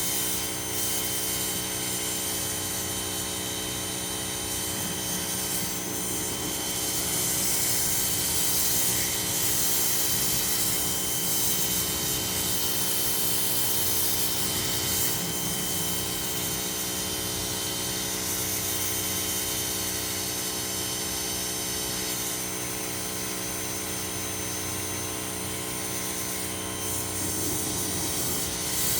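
Ryobi 2000 psi pressure washer running steadily with a constant motor and pump hum, while its jet of water hisses, growing louder and softer as the spray moves over surfaces.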